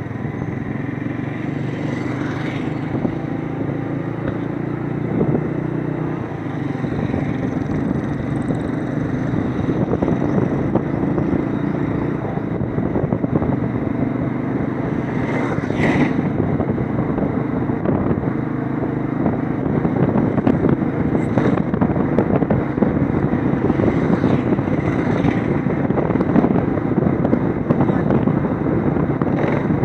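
Motorcycle engine running steadily while riding, with road and wind noise and a few small changes in engine pitch.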